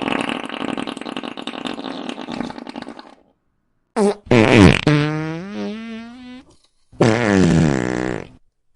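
A string of fart sound effects. A long raspy fart stops about three seconds in, followed by a short pop and then two pitched, wavering farts, the last one falling in pitch.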